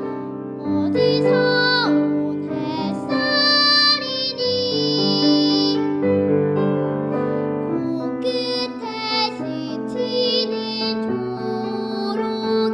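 A young girl singing a Korean children's song in a clear voice with vibrato on held notes, over instrumental accompaniment.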